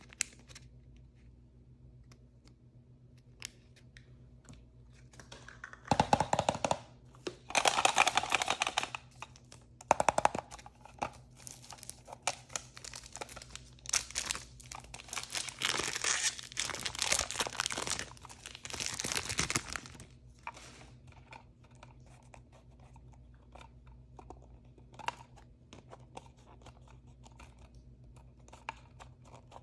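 Blind-bag packaging torn open and crinkled by hand: loud rustling bursts of tearing and crinkling from about six to twenty seconds in, with soft clicks and small handling sounds before and after.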